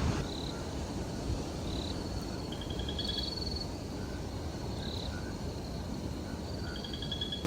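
Night chorus of small calling animals: short, high, pulsing trills at a few slightly different pitches, one every second or so and sometimes overlapping, over a low steady rumble.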